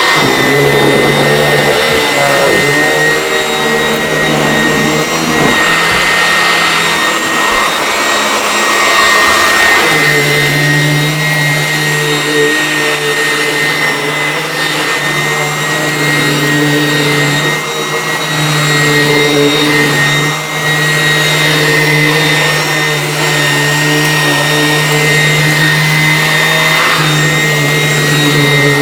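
Vacuum cleaner running continuously: a steady motor hum with a high whine over the rush of air, its sound changing for a few seconds about a quarter of the way through.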